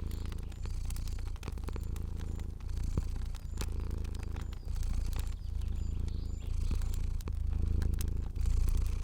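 A cat purring steadily in a low rumble that swells and falls with each breath, about once a second, over a crackling fire with scattered small pops.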